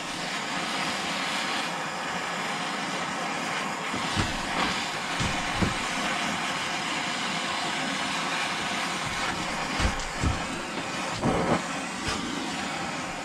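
A blowtorch flame hissing steadily while it scorches the wooden axe handle, with several short knocks scattered through it.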